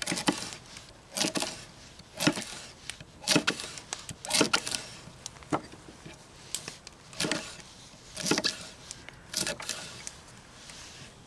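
Knife chopping on a wooden cutting board, a cut about once a second.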